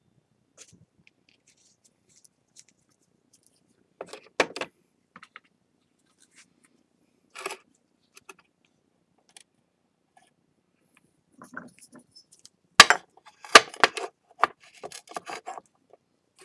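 Scattered small clicks, taps and a brief scrape of hard objects being handled: a lacquer tube, brush and ceramic plate on a work surface. A quick run of sharper clicks comes about thirteen seconds in.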